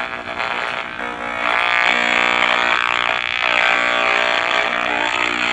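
Buzzing from a GHz transducer's speaker as it picks up microwave radiation leaking from a running microwave oven. It grows louder about a second and a half in and then holds steady.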